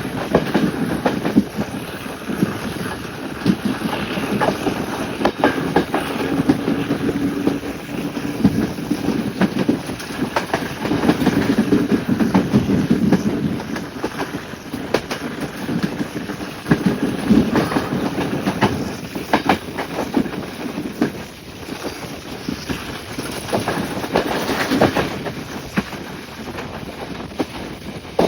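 Class S10 diesel-electric train running along the track: a steady rumble with many irregular sharp clacks from the wheels over the rails.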